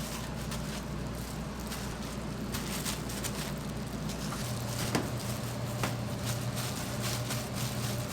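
Kitchen work sounds: scattered light clicks and taps over a steady low hum of kitchen equipment, with one sharper click about five seconds in.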